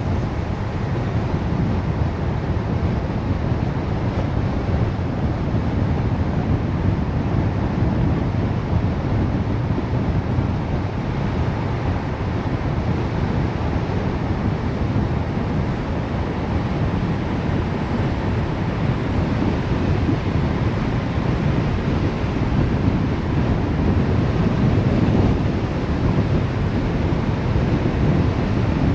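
Steady road and wind noise from a car being driven: an even rushing rumble that holds level throughout.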